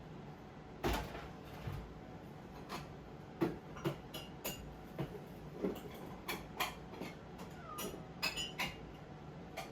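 A string of irregular household knocks and clatters, about a dozen sharp hits spread over several seconds.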